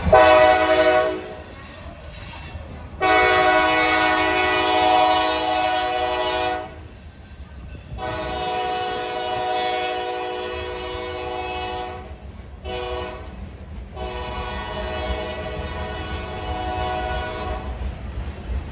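Freight locomotive's multi-chime air horn sounding a short blast, then long, long, short, long: the standard warning for a grade crossing. A low diesel engine rumble runs underneath.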